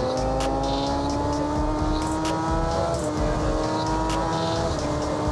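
Suzuki GSX-R600 inline-four engine with an M4 aftermarket exhaust pulling at high revs under way, its pitch climbing slowly and steadily.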